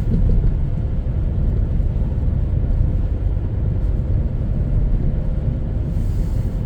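A car running, heard as a steady low rumble of engine and road noise with a faint constant hum.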